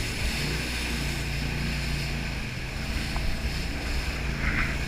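Jet boat under way: its engine runs at a steady drone beneath rushing water, with wind buffeting the microphone.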